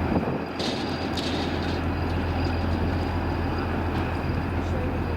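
Railway train or locomotive running steadily: a low steady hum with a faint high steady whine over it, and two short hisses about a second in.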